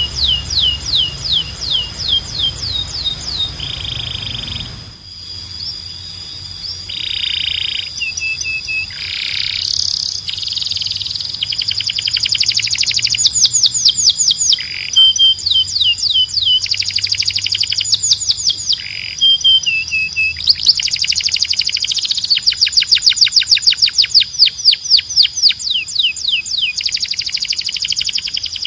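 Domestic canary singing a long, continuous song of rapid trills. Each trill is a run of quickly repeated notes at its own pitch and speed, with short buzzy rolls in between.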